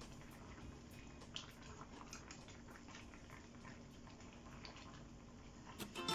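Chicken simmering in its masala in a pan, faint bubbling with scattered light clicks as it is stirred with a spoon. Music comes in near the end.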